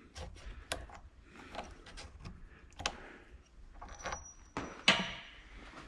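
Scattered light metallic clicks and taps of small steel parts and tools being handled. About five seconds in comes a louder clank that rings out briefly, a steel drift pin punch being dropped.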